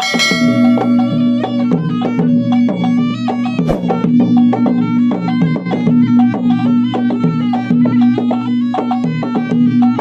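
Traditional Maros gendang drums (Bugis-Makassar ceremonial drums) playing fast, dense wedding drumming over a steady drone.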